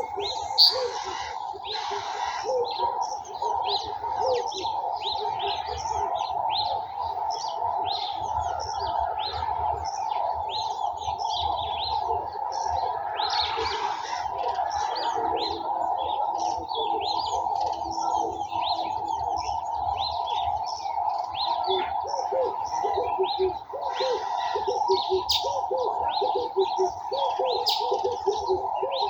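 Garden birds chirping and singing together in a dense chorus of many quick high notes, with repeated lower cooing calls of doves. A steady drone runs underneath.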